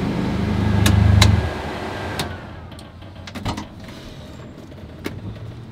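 Audi Quattro S1 E2 Group B rally car's turbocharged inline-five, heard from inside the cabin, pulling hard under load in second gear and getting louder, then dropping off sharply about a second and a half in as the throttle is lifted. A faint whine falls away after the lift, over a lower rumble with a few sharp clicks.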